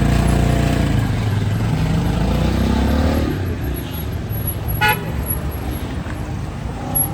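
A motor vehicle's engine runs loud and close for about three seconds, its pitch gliding up and down as it passes, then drops away into street traffic noise. A short horn toot sounds about five seconds in.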